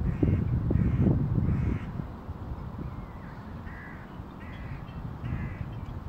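A bird calling repeatedly, about six calls in two groups of three. Wind rumbles on the microphone for the first two seconds, then dies down.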